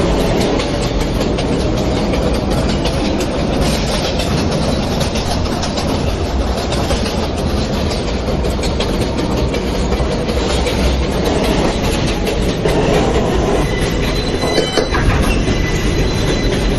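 New York City Subway J train running between stations, heard from inside the car: a steady rumble and rattle of the wheels on the rails. A brief high-pitched whine comes in near the end.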